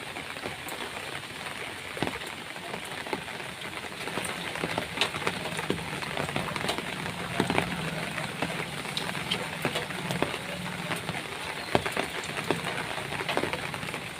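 Rain falling steadily, with many separate drops striking sharply close by.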